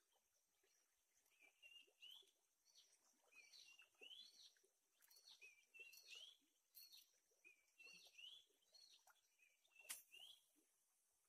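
Faint bird calls: many short rising chirps repeating throughout, over a faint steady high hiss. A single sharp click about ten seconds in.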